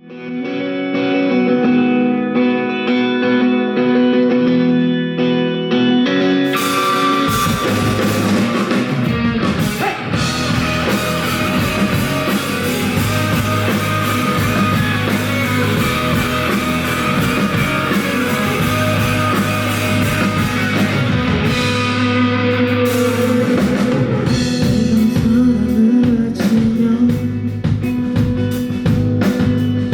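Live rock band playing an instrumental intro: guitar chords ring alone at first, then drums and the full band come in about seven seconds in and play on loudly.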